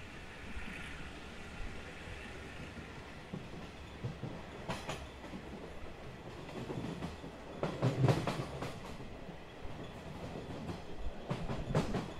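Taiwan Railways SPK32717 ordinary-class passenger coach running at about 38 km/h with a steady rumble. Its wheels clack over rail joints and pointwork: a single clack about five seconds in, a louder cluster about eight seconds in, and another cluster near the end as the train runs onto the station tracks.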